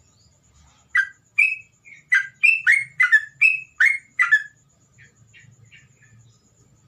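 A songbird, as kept in the Indonesian songbird hobby, calling: a quick run of about ten loud, sharp chirps starting about a second in, then a few softer chirps.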